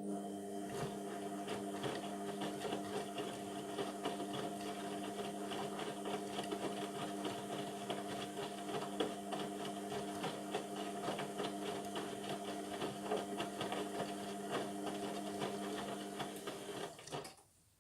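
Indesit MTWC71252WUK washing machine mid-way through its Sport cycle: a steady electric hum with water rushing and fine clicking starts abruptly, runs for about seventeen seconds and then cuts off suddenly.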